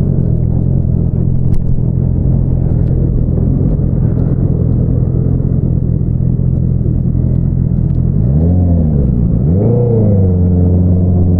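Honda CBR650R's inline-four through an Akrapovič single-outlet exhaust, running at a steady low engine note. Twice, about eight and a half and ten seconds in, the revs rise quickly and fall back in short throttle blips.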